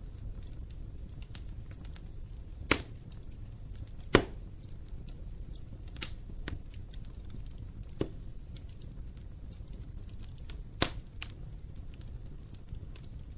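Wood fire burning in an open fireplace: a steady low rumble of flame with scattered small crackles and five loud sharp pops spread over the stretch.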